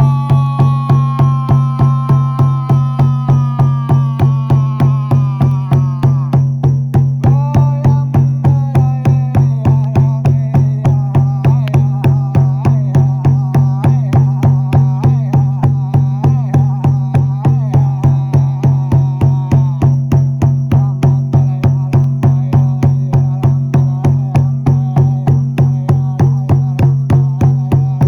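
Meditative ritual music: a frame drum beaten in a steady rhythm of about two strokes a second over a constant low drone, with a gliding, wavering melody above that fades out about twenty seconds in.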